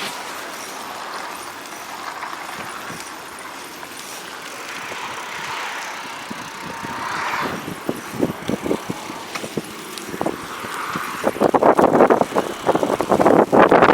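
Bicycle ridden on a snowy road in strong wind: a steady rushing hiss, a few knocks from about eight seconds in, then loud gusts buffeting the microphone over the last few seconds.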